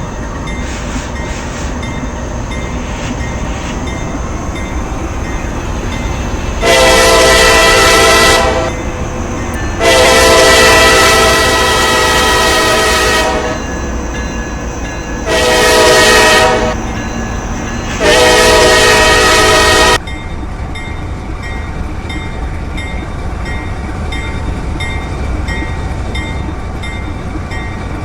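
Locomotive horn sounding a chord of several notes in the grade-crossing pattern, long, long, short, long, over the steady rumble of the moving train.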